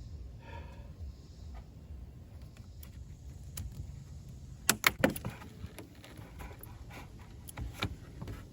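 Scattered clicks and knocks of parts and tools being handled under a Hummer H2's hood, the loudest a pair of sharp knocks about five seconds in.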